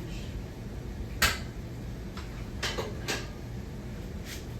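Hampton Bay Gazebo 52-inch ceiling fan running with a steady low hum, broken by a few sharp irregular clicks, the loudest about a second in.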